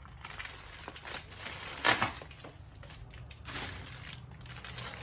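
Bubble wrap and plastic packing being handled and crumpled while unpacking a parts box, with a sharp loud crinkle about two seconds in and another burst of crinkling about three and a half seconds in.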